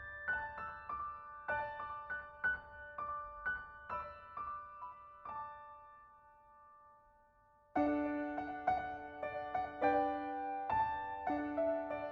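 Gentle piano background music. The notes die away about six seconds in, and a new, louder passage with lower notes begins near eight seconds in.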